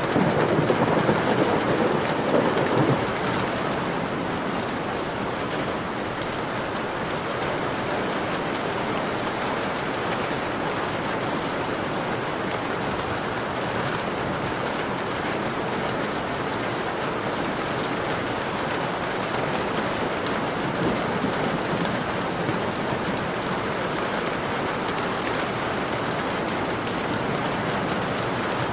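Steady rain falling on a window, with a low rumble of thunder in the first three seconds.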